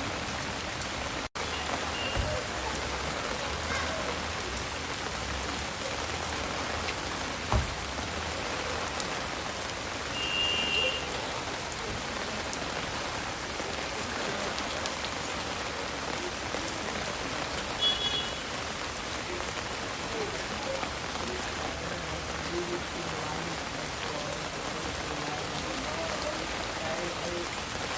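Steady heavy rain falling and pattering on surfaces, an even hiss with no break. A single knock comes about 8 seconds in, and two short high-pitched tones sound around 10 and 18 seconds in.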